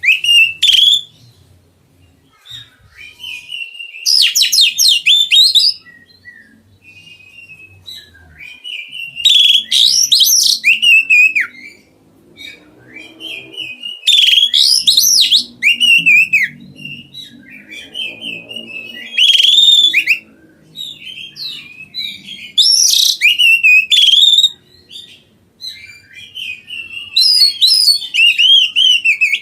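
A songbird singing loudly in phrases of rapid, high, varied notes, each phrase a second or two long, repeated every few seconds.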